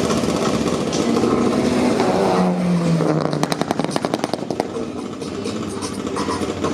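Engine revving hard, its pitch dropping a little past two seconds in, then a rapid, even run of sharp pulses lasting just over a second.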